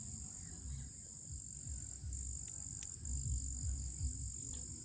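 Steady high-pitched chorus of crickets, with irregular low rumbling underneath and a couple of faint clicks in the middle.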